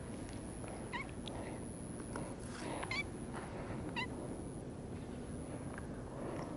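A cat meowing in three short calls, about one, three and four seconds in, over a steady background hiss.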